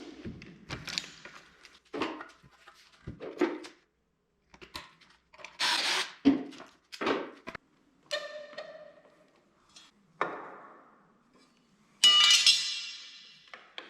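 Irregular knocks and thuds in a workshop, with a short ringing knock about two-thirds through and a loud ringing metallic clink near the end.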